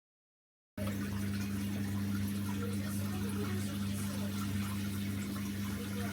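Zanussi FL984CN front-loading washing machine moving water through its valve or pump, a steady low hum over water noise. It starts abruptly about a second in.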